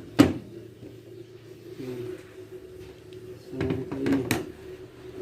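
Knocks and clicks of washing-machine parts being handled. There is one sharp knock just after the start, then a cluster of clicks and knocks about three and a half to four and a half seconds in, over a steady low hum.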